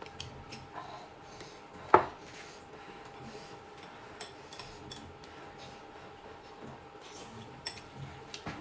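Tableware clinking during a meal: scattered light clicks of utensils on dishes, with one sharp ringing clink about two seconds in.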